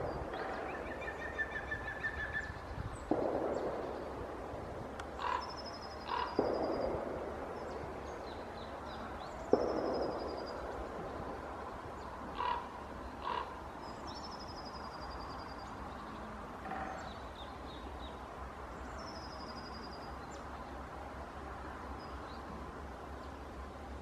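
Wild birds calling outdoors: a short, high, descending trill repeats about every five seconds, and near the start there is a brief run of quick repeated lower notes. A few sudden noisy bursts fade out during the first ten seconds.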